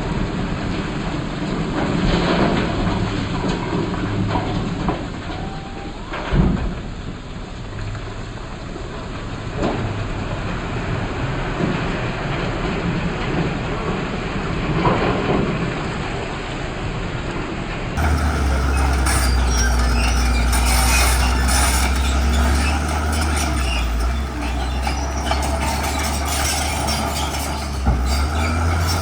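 Komatsu bulldozer at work pushing rock: its diesel engine running under load, with scattered knocks, the sharpest about six seconds in. Around two-thirds of the way through, the sound switches abruptly to a louder, steady deep engine drone.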